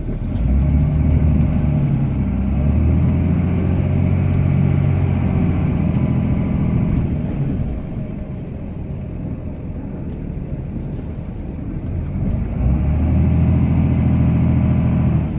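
Ram pickup's Cummins turbo-diesel inline-six pulling under load while plowing snow, heard from inside the cab. The engine note rises and holds, eases off about seven seconds in, then climbs again near the end.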